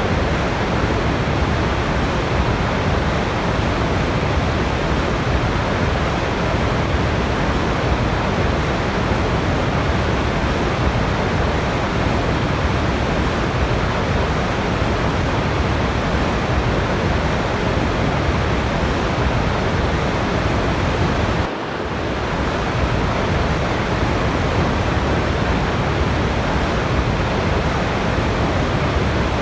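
Steady, unbroken rush of a waterfall, used as white noise. It dips for a split second about two-thirds of the way through, then resumes at the same level.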